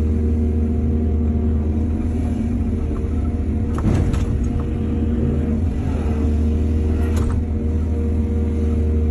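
Excavator's diesel engine running steadily, with two short knocks about four and seven seconds in.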